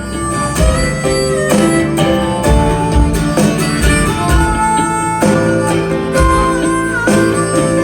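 Live band playing an instrumental break: strummed guitars with a bass beat, and a harmonica or fiddle-like lead line over them.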